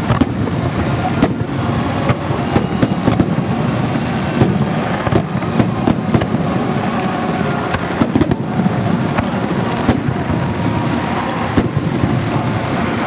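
Festive fireworks display: many sharp bangs and crackles in quick, irregular succession over a continuous rumble of bursts.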